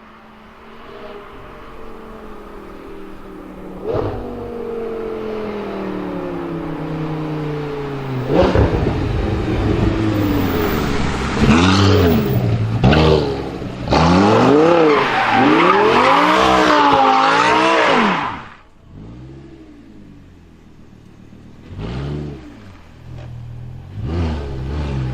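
Audi R8's 5.2-litre V10 with a Per4mance aftermarket exhaust. At first its idle pitch falls steadily, with a sharp pop about four seconds in. It is then revved hard several times in a row, crackling and popping on the throttle lifts. It settles back to idle, with two short throttle blips near the end.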